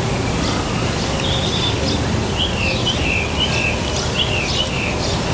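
A small bird chirping a quick series of short, sliding notes over a steady outdoor background noise.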